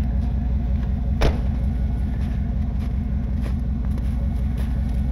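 Vehicle engine idling steadily, with a single sharp clack about a second in.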